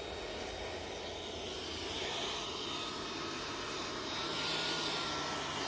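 Ryobi cordless handheld blower running steadily: a motor whine over rushing air as it blows sanding dust off a steel van roof.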